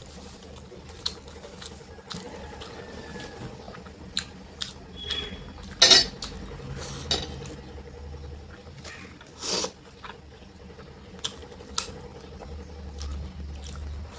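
Eating dal chawal: scattered clinks and scrapes against a plate with wet mixing sounds of rice and dal. There are two louder clatters, about six and nine and a half seconds in.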